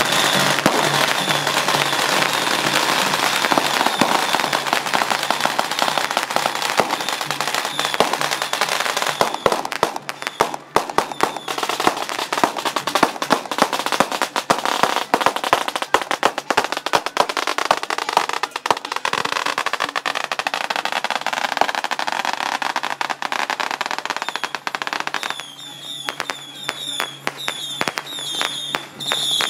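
A long string of firecrackers crackling rapidly and continuously, with music from a festival band sounding underneath, most plainly near the start and again near the end.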